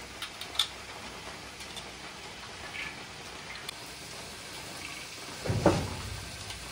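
Mixed vegetables shallow-frying in oil in a handi, a steady sizzle with a few light clicks, and a louder clatter about five and a half seconds in.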